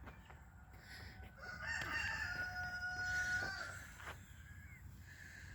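A rooster crowing once, a single cock-a-doodle-doo of about two seconds that begins about a second and a half in and ends on a long held note.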